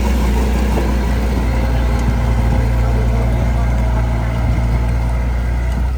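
Heavy diesel earthmoving machinery running steadily, a constant low drone.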